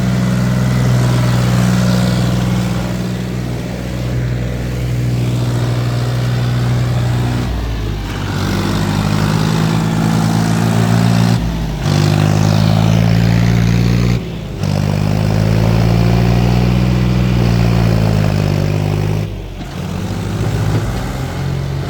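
Tractor engine labouring under load, its pitch rising and falling as it is revved, with a few brief breaks.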